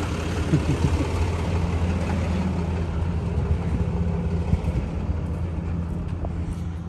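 Truck engine running steadily at idle, a constant low hum.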